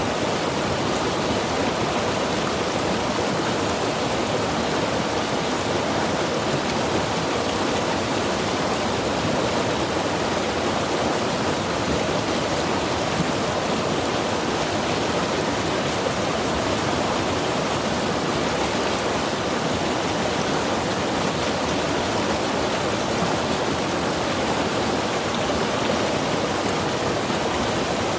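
Mountain river rushing over rocks, a steady unbroken roar of flowing water.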